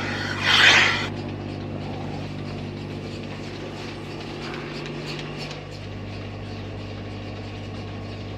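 A machine's motor running with a steady low hum, with a loud rushing burst about half a second in.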